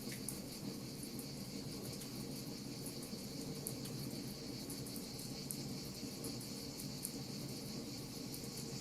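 Wood fire crackling with scattered sharp pops, over a steady high-pitched insect trill and a low, even background rumble.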